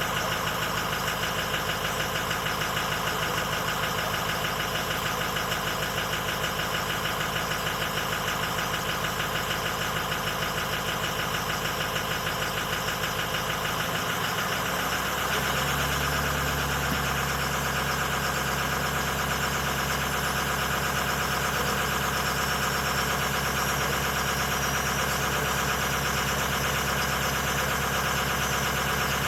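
Stock 2006 Ford F-250's 6.0 Powerstroke V8 turbo-diesel idling with diesel clatter, still warming up after a cold start. About halfway through, the idle note shifts and gets slightly louder, then holds steady.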